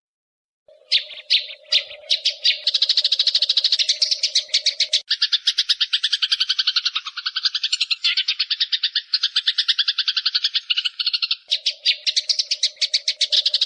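A songbird's rapid, chattering trill of fast repeated chirps, starting abruptly about a second in. Midway the notes switch to a lower, denser run for several seconds, then return to the higher chatter near the end.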